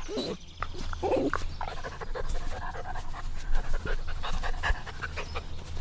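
Puppies panting, with a few short whimpers in the first second and a half.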